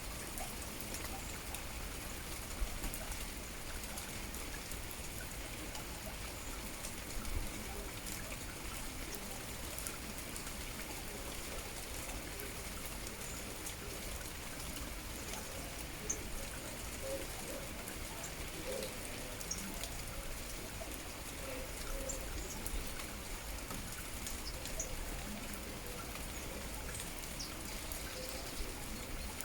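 Steady rain falling, with scattered drops landing and water trickling.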